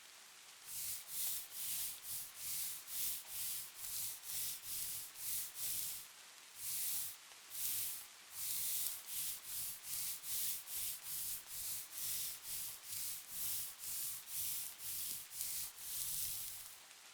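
Rubbing, wiping strokes of eye-makeup removal, about two a second, with a few slower, longer sweeps in between.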